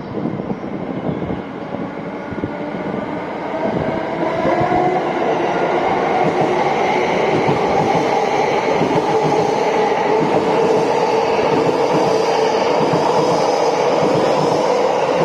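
Electric train running at close range: wheel and track rumble with a steady whine from its electric traction motors. It grows louder about four seconds in and then holds.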